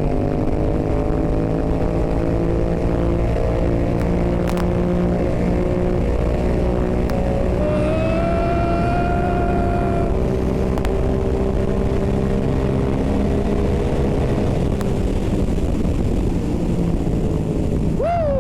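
Motorcycle engine, a Yamaha MT-07 parallel twin with an Akrapovič exhaust, running at a steady cruise, its pitch drifting only slowly. A separate higher whine rises briefly about eight seconds in.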